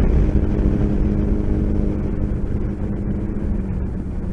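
Motorcycle engine pulling hard under acceleration during an overtake, a steady engine note mixed with heavy wind rush.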